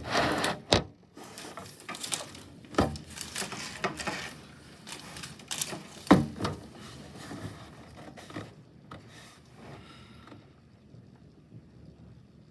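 Irregular knocks, clicks and rubbing of a camera being handled and settled into place, loudest in the first few seconds and dying away after about ten seconds.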